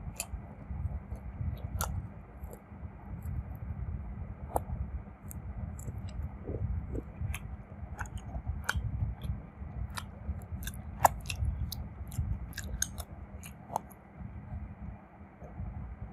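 Close-miked chewing of crunchy food, with many sharp, irregular crackles and crunches over a low, muffled mouth rumble.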